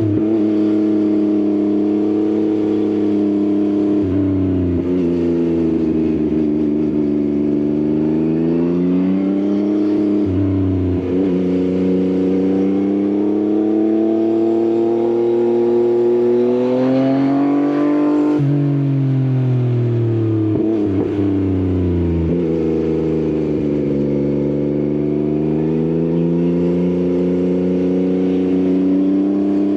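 Yamaha XSR900's three-cylinder engine through an Akrapovič exhaust, ridden on the road and rising and falling in pitch with the throttle. It climbs steadily for a long stretch, drops sharply just past the middle, falls away, and builds again near the end.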